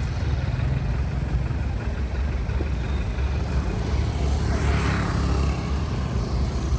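Steady low rumble of a moving motor vehicle, with a brief swell of hiss about four and a half seconds in as something passes close by.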